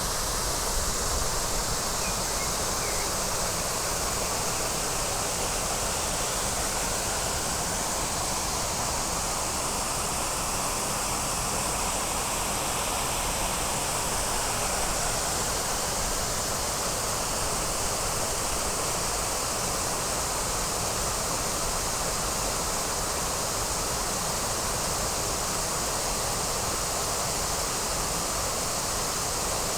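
Steady, unbroken rush of water pouring down a waterfall.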